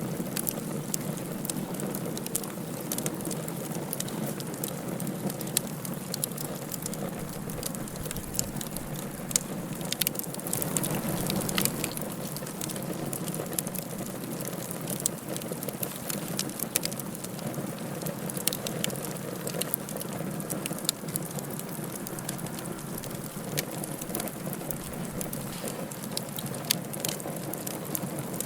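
Wood fire burning in a fireplace: a steady hiss and rumble with frequent, irregular sharp crackles and pops.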